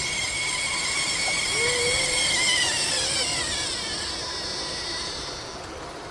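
A model locomotive on garden-railway track, running with a high whine. The whine holds its pitch, then falls over a couple of seconds about halfway through and fades away.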